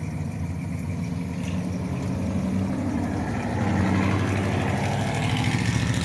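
Classic American cars' engines running at low speed with a deep, throbbing exhaust note as the cars roll slowly past; one gets louder about four seconds in.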